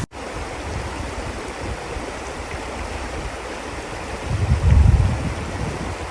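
River water rushing steadily. A low rumble of wind on the microphone swells about four seconds in and fades about a second later.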